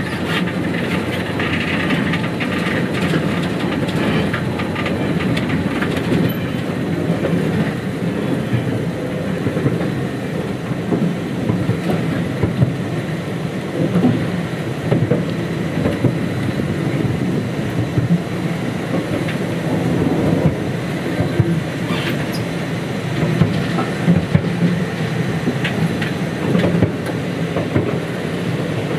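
Rattle and rumble of a small sightseeing train running on its track, heard from its open-sided passenger car, with wheels clicking over the rail joints. There is some high-pitched squeal in the first few seconds.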